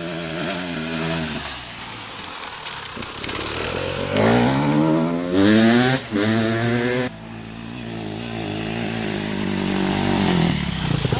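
Motocross dirt bike engine revving. Its pitch climbs hard about four seconds in and drops away suddenly just after seven seconds, then builds steadily again toward the end.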